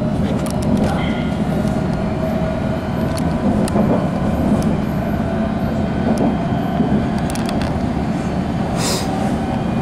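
Running noise heard from inside a moving train carriage: a steady rumble of wheels on rail, with a few sharp clicks and knocks scattered through.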